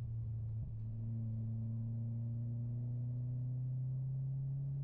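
Mitsubishi Lancer Ralliart's turbocharged four-cylinder engine droning inside the cabin while driving. The note breaks briefly just after the start, then holds steady and climbs slowly under acceleration.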